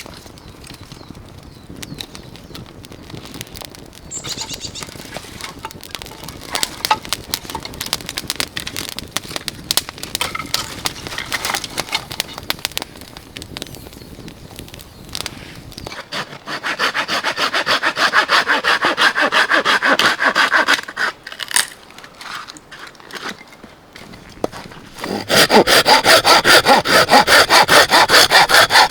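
Hand saw cutting wood in even back-and-forth strokes: a run of strokes a little past halfway, then a louder, faster run near the end. Before that, quieter scraping and rubbing on wood.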